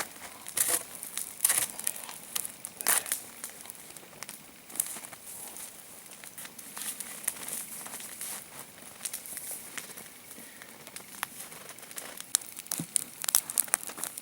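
Log campfire burning, crackling and popping with irregular sharp snaps over a steady hiss, a few louder snaps in the first three seconds.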